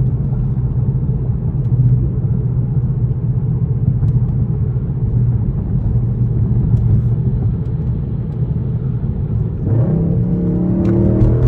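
Straight-piped Infiniti M56's 5.6-litre V8 exhaust running steadily with a low drone, then rising in pitch as the car accelerates near the end.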